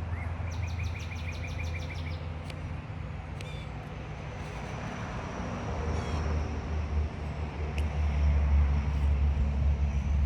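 A steady low rumble, louder in the second half, with a bird's rapid trill of about ten quick notes near the start and a few sharp clicks.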